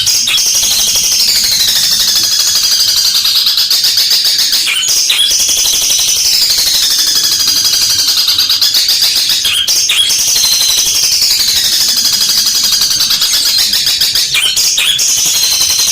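Long-tailed shrike (cendet) singing loudly and without pause: a fast, harsh, high-pitched chatter with phrases that slide downward every four to five seconds, broken briefly three times. Its song carries mimicry of fighting tree sparrows.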